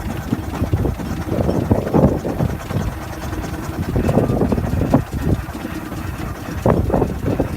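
6-inch scale Burrell double-crank compound showman's steam traction engine running on the road, a steady rumble with uneven surges.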